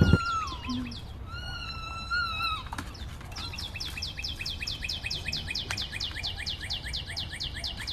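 A bird calling: two whistled notes, the first falling, then from about three seconds in a rapid run of short, falling chirps at about five a second.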